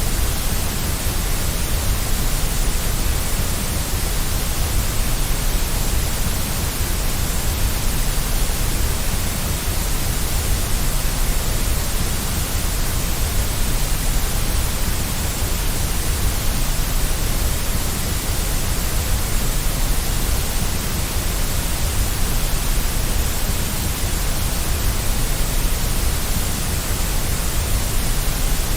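Steady white noise: an even, unchanging hiss across the whole range, heavier in the low end.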